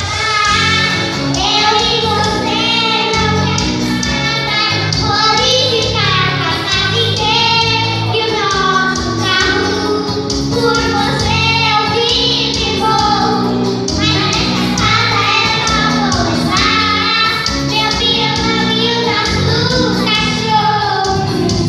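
A song: a sung melody over instrumental backing, continuous throughout.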